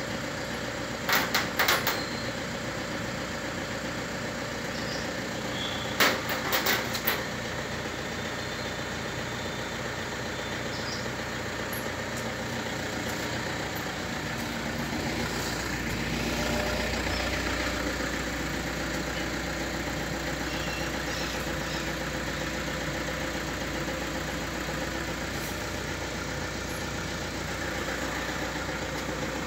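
Car engine idling steadily, with a few sharp clicks about a second in and again around six seconds in. The low hum of the engine gets stronger about halfway through.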